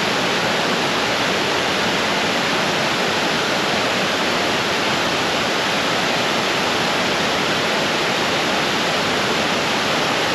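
Fast creek water rushing and pouring over small falls: a loud, steady rushing.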